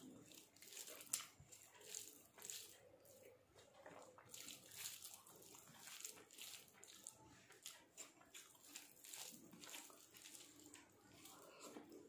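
Faint eating by hand: soft chewing with many quick wet mouth clicks, and fingers squishing rice and cabbage curry on a steel plate.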